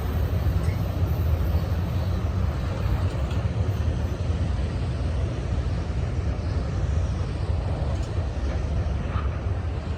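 A passing train rumbles steadily and low, with no pauses or sharp events.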